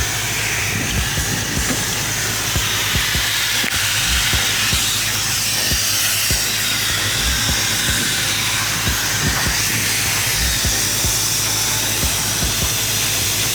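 Abrasive sandblaster blasting media with compressed air: a steady, loud hiss, with scattered low thumps underneath.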